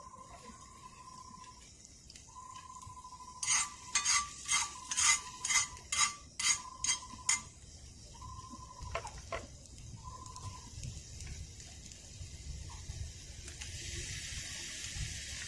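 A metal utensil knocking on a cookpot or pan about eight times, roughly two knocks a second, over a steady high tone that breaks off and resumes. A sizzling hiss builds near the end.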